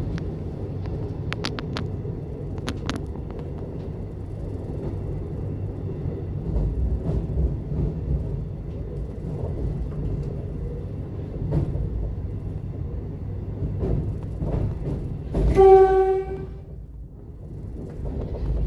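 Electric suburban train running through a tunnel: a steady low rumble of wheels on track, with a few sharp clicks early on. About three-quarters through comes a single horn blast of about a second, the loudest sound.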